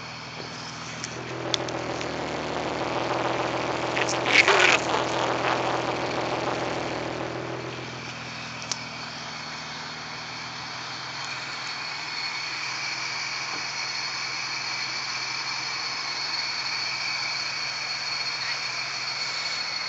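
ProCharger-supercharged car engine running at the exhaust. It swells louder for several seconds, with a sharp loudest peak about four and a half seconds in, then settles back to a steady idle.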